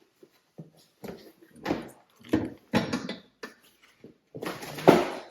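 Irregular knocks, scrapes and rustles of lift parts and packaging being handled, in several short bursts, the loudest near the end.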